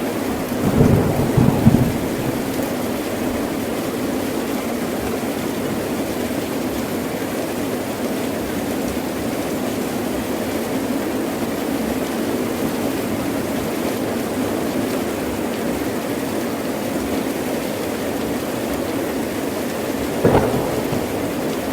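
Heavy rain pouring steadily, with short claps of thunder about a second in and again near the end.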